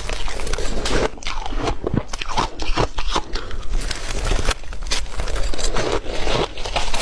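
Ice being bitten and chewed, a dense, irregular run of sharp crunches and cracks, several a second, with no pause.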